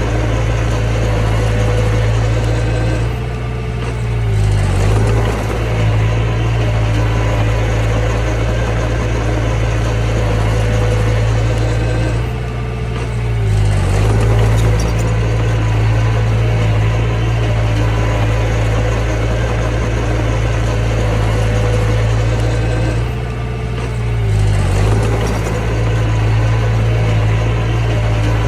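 Mini bulldozer's diesel engine running steadily under work, its note dipping and recovering briefly three times, about ten seconds apart, as the load changes.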